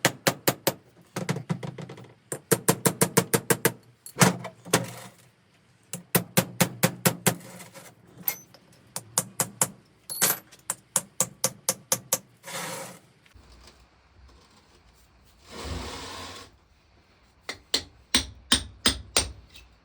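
Hand tools working metal while a water pump is being dismantled: repeated runs of rapid, evenly spaced metallic clicks, broken twice by a short scraping burst.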